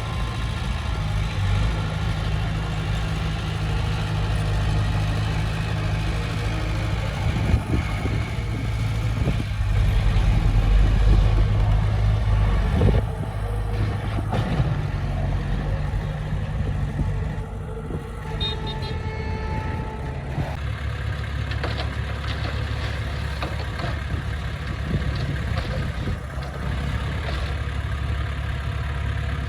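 Diesel engine of heavy earthmoving machinery running steadily. It gets louder for a few seconds about a third of the way in, then settles to a lower, steady note in the second half.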